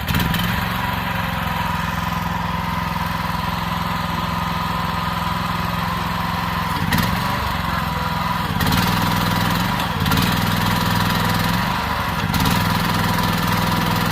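Small gasoline engine of a towable backhoe excavator running steadily just after starting. Its note shifts briefly a few times in the second half.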